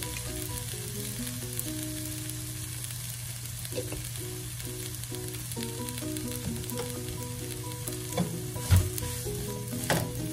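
Fried rice sizzling steadily in a hot nonstick pan, with soft background music. A few spatula knocks and scrapes in the second half as stirring starts.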